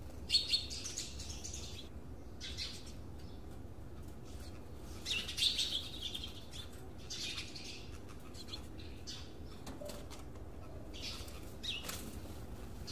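Birds chirping in short bursts, four or so times, over a low steady hum.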